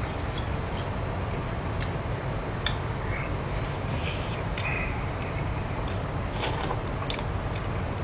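Close-miked chewing and mouth sounds of a man eating stir-fried sundae: wet smacks and small crackles, with a sharp click almost three seconds in and louder stretches of smacking around four and six and a half seconds, over a steady low hum.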